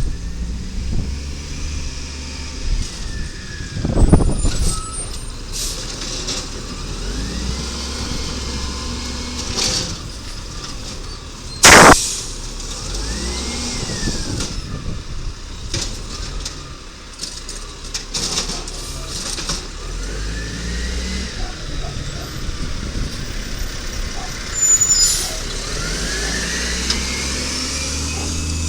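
Automated side-loader garbage truck working its route: the engine revs up and down several times, with a heavy thud about four seconds in and a short, loud air-brake hiss about twelve seconds in.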